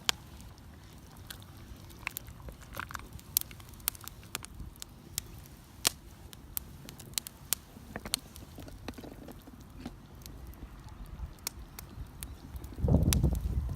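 Wood campfire crackling, with irregular sharp snaps and pops. Near the end a short low rumble comes in, like wind or handling noise on the microphone.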